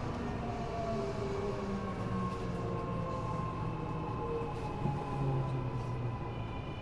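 Running sound of an Eidan 6000-series subway car recorded from the car floor: its Mitsubishi three-level VVVF inverter, taken from a 7000-series car, and traction motors whine in several tones that slowly fall in pitch over steady wheel and track noise as the train slows for a station. Higher steady tones come in near the end.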